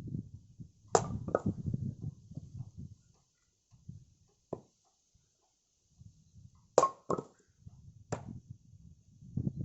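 Firewood being handled: about six sharp wooden knocks, two close together early on and three more in the second half, with low shuffling and scraping between them.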